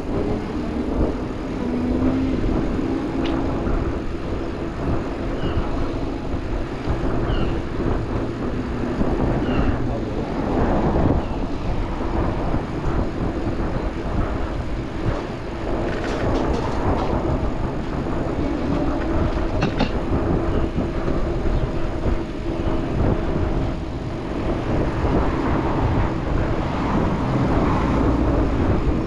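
City street traffic heard from a moving bicycle, dominated by a steady low rumble with a held hum, typical of a streetcar running nearby on its rails. A few faint short high squeaks come in the first third, and a couple of brief clicks come past the middle.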